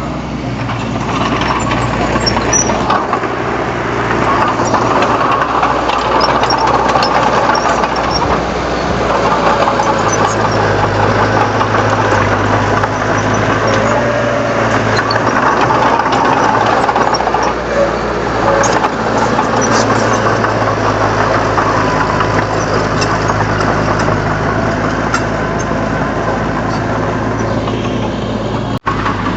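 Komatsu D31 crawler bulldozer's diesel engine running steadily, with scattered clicks and clanks over it. The sound drops out for an instant near the end.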